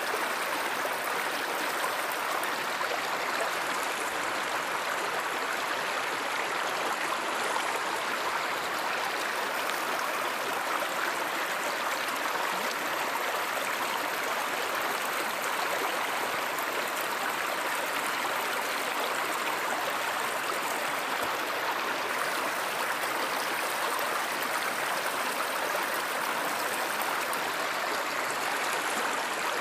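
A river or stream running steadily, an even rush of flowing water.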